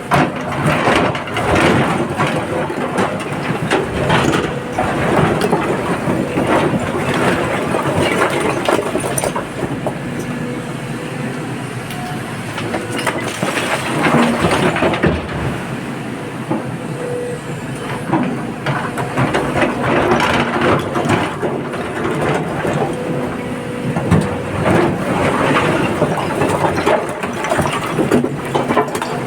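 Heavy machinery working while an excavator loads a tipper truck with rock and earth. Under the engine noise there is continuous clattering and knocking, with louder bursts of clatter every few seconds as material goes in.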